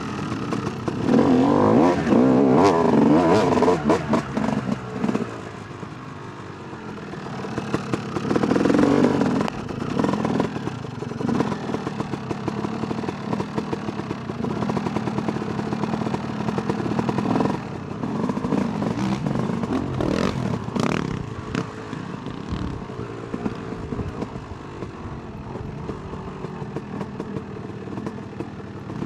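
2008 Yamaha YZ250 two-stroke dirt bike engine revving hard in repeated surges, loudest in the first few seconds, backing off between them. Sharp knocks and clatter come from the bike over rough ground.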